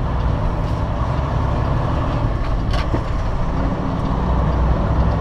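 Semi truck's diesel engine running, heard from inside the cab as a steady low rumble, with a single faint click about three seconds in.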